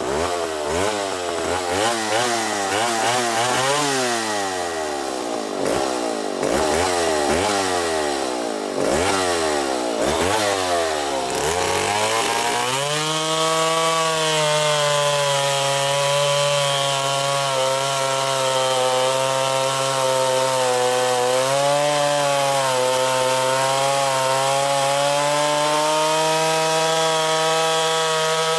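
Stihl Contra Lightning two-stroke chainsaw, enlarged to 137 cc, revving up and down about once a second. About twelve seconds in, it is held steady at high revs, with one brief dip in pitch.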